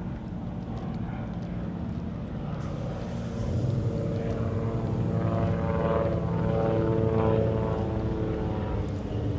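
A steady engine drone with a clear pitch that swells about a third of the way in, is loudest a little past the middle, then eases slightly, like an engine passing by.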